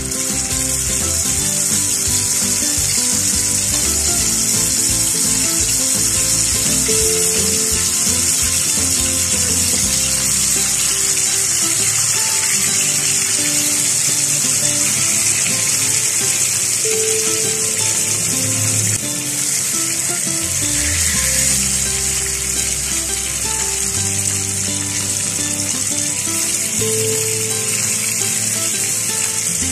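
Marinated fish pieces shallow-frying in hot oil on a flat iron tawa: a steady, loud sizzle, with background music underneath.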